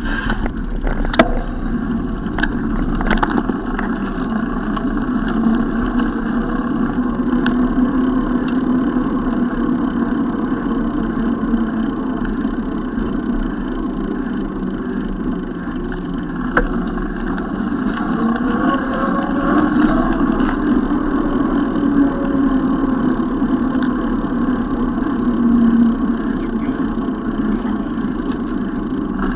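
Steady wind and road noise from riding a bicycle, with sharp clicks about a second in and again about halfway through, and a faint gliding tone from passing traffic later on.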